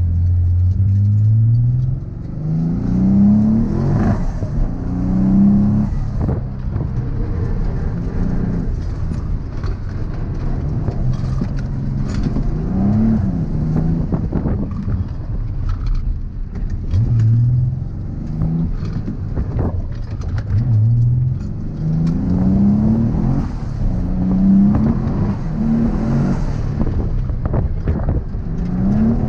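Twin-turbocharged Nissan 350Z's V6 engine driven hard, revving up and dropping back again and again, its pitch climbing with each pull and falling when the throttle lifts or a gear changes.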